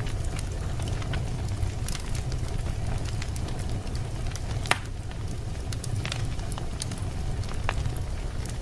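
Wood fire burning in a fireplace, crackling with scattered sharp pops over a low steady rumble; one louder pop about halfway through.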